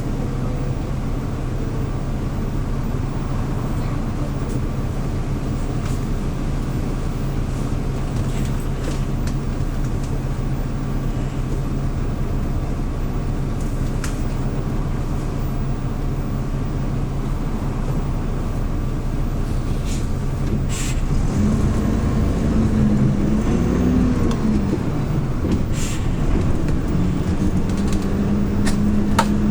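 Engine of a Hyundai New Super Aero City CNG city bus, heard from inside the cabin: a steady low drone, then about two-thirds of the way through it gets louder and its pitch rises and wavers as the bus accelerates, settling at a higher steady pitch near the end. Occasional light rattles and clicks.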